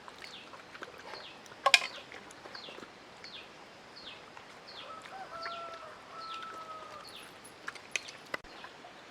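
A bird calling with a short falling chirp, repeated about twice a second. A sharp click about two seconds in is the loudest sound, and a steady held tone sounds for about two seconds past the middle.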